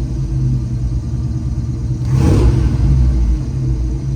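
Chevrolet 350 small-block V8 crate engine running at a steady idle, with a brief louder burst of noise about two seconds in.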